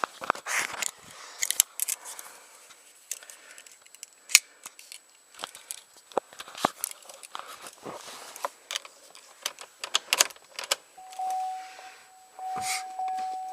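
Keys jangling with scattered clicks and knocks as the car keys are handled before starting, with no engine running yet. About eleven seconds in, a steady electronic chime tone starts and keeps on.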